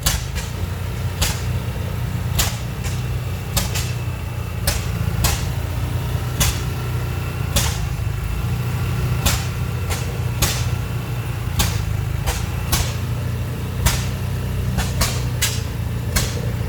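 Antique oil field engines, a Bessemer among them, running slowly: each firing is a sharp exhaust pop, with pops from several engines coming at uneven intervals about once or twice a second over a steady low engine rumble.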